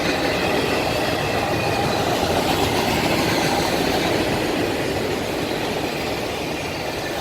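Freight train of autorack cars rolling past close by: a steady loud rumble of wheels on rail, with a faint high wheel squeal.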